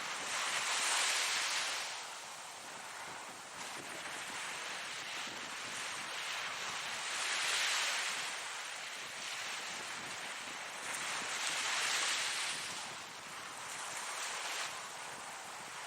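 Ocean waves breaking and washing up on shore in repeated swells, one every few seconds, with a steady hiss of surf between them.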